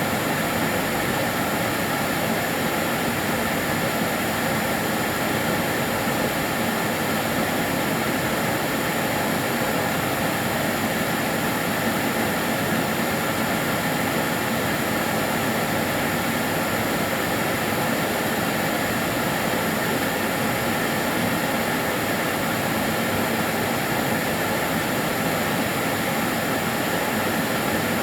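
Karcher DS 6 Premium water-filter vacuum cleaner running steadily: a constant whooshing motor noise with a few faint steady tones and no change in speed.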